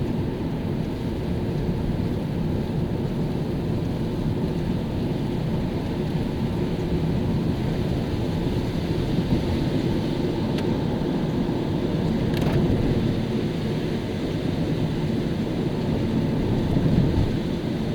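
Car driving on a wet road in the rain: steady low rumble of tyres and engine with the hiss of wet pavement.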